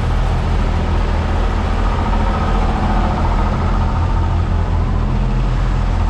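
MAN truck's diesel engine idling steadily.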